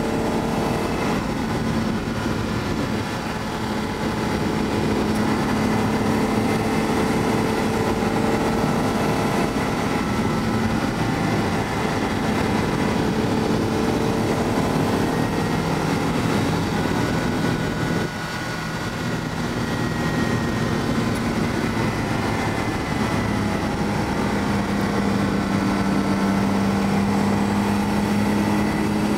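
Car engine and tyre-road noise heard from inside the cabin while driving on a race track, the engine pitch rising and falling gently with the throttle. Briefly quieter about two-thirds of the way in, as the engine eases off.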